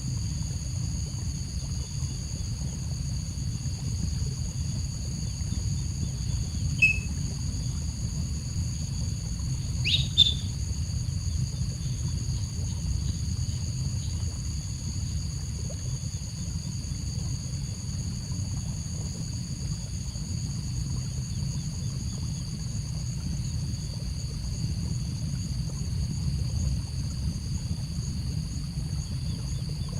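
Two brief bird chirps, one about seven seconds in and a louder one about ten seconds in, over a steady high whine and a low rumble.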